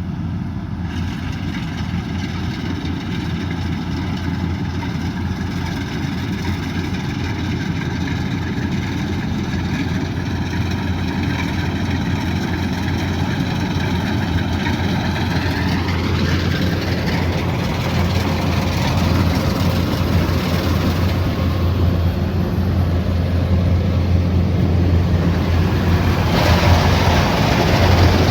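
Kubota DC108X rice combine harvester running: a steady engine drone with a higher machine whine that shifts in pitch around the middle, growing gradually louder. About two seconds before the end, a harsher rushing noise joins in.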